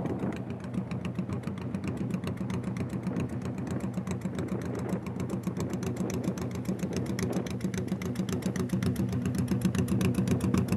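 Motorcycle engine idling steadily, with a fast, even beat.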